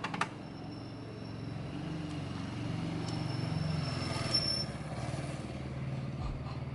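Low, steady motor hum with a slowly shifting pitch, opening with two sharp clicks.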